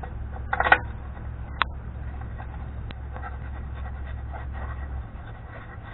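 Metal clinks of a spindle nut and tools being handled and fitted on a wheel hub: a quick cluster of clinks, a sharp single clink a second later, then lighter scattered ticks, over a low steady hum that stops about five seconds in.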